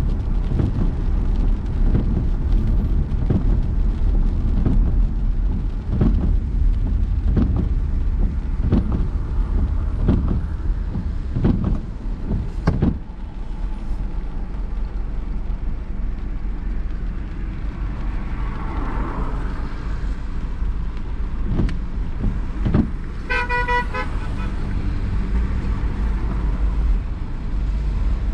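Car driving in city traffic, a steady low rumble of engine and road noise with scattered short knocks over the first half. About 23 seconds in, a car horn gives a quick burst of short rapid beeps.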